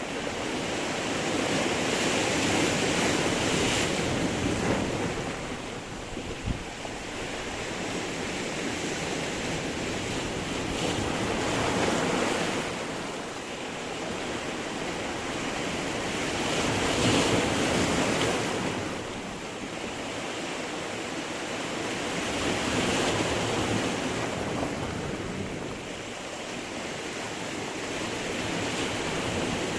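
Sea surf breaking on a stony shore: a continuous wash of water that swells and eases as waves come in every several seconds.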